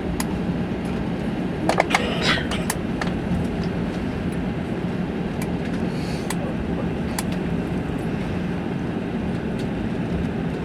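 Cabin noise of an Airbus A380 on the ground after landing: a steady rumble with a constant low hum. A few sharp clicks and knocks come about two seconds in, then lighter ticks.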